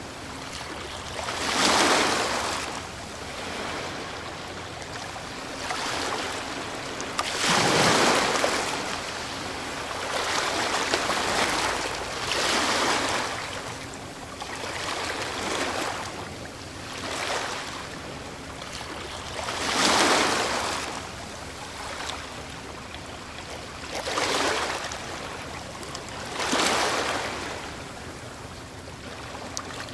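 Ocean waves breaking on a shore: a steady wash of surf that swells with each breaker, roughly every few seconds, the biggest about 2, 8, 20 and 26 seconds in.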